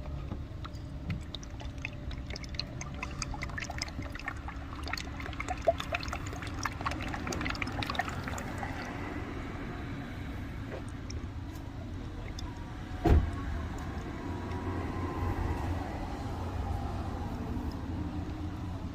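Motor oil pouring from a five-quart jug into the engine's oil filler, with many irregular small ticks in the first half and a slow rise in pitch later on. One sharp knock stands out about thirteen seconds in.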